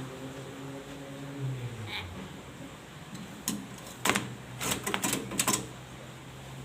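A parrot's beak tapping and nibbling in a quick flurry of sharp clicks, about a dozen over two seconds, starting about three and a half seconds in. It follows a low humming tone that fades out about two seconds in.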